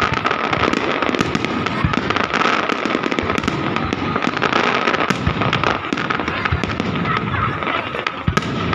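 Fireworks display: dense, continuous crackling and popping from many bursts, with a few deeper booms about two, five and eight seconds in.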